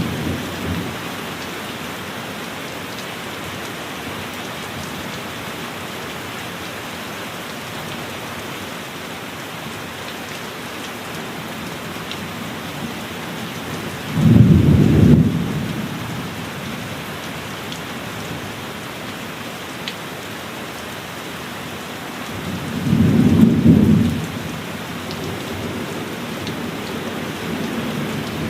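Heavy rain falling steadily, with thunder rumbling twice: once about halfway through and again near the end, each rumble lasting about two seconds.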